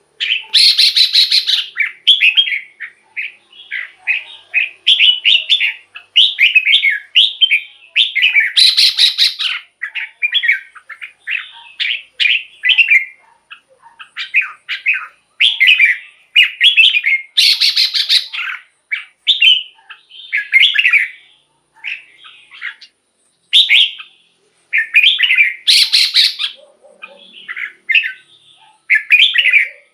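Red-whiskered bulbul singing: a rapid stream of short, loud warbled phrases, with a harsh rasping burst every several seconds.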